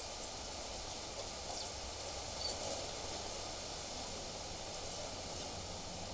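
Windy outdoor ambience: a steady, even hiss of wind, with a few faint, short high chirps about one to two and a half seconds in.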